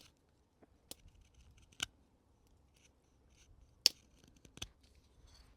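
Carving knife cutting into a cherry-wood coffee scoop blank, roughing out the outside of the bowl: four sharp, separate cuts, each snapping a chip free, the loudest a little before four seconds in.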